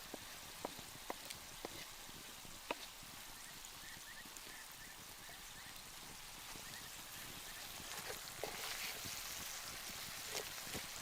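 Food sizzling over a campfire: a soft, steady hiss with scattered sharp crackles and pops. A faint series of short chirps comes about a third of the way in.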